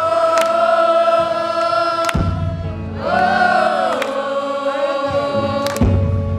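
Live band music with many voices singing long held notes in call-and-response with the singer, the pitch shifting about halfway through. A sharp beat is struck about every one and a half to two seconds.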